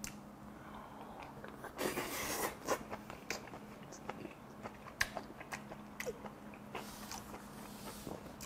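A man chewing a mouthful of rice and braised kimchi with his mouth closed, close to a clip-on microphone. The chewing comes as soft wet smacks and clicks, with two longer noisy stretches about two seconds in and around seven seconds.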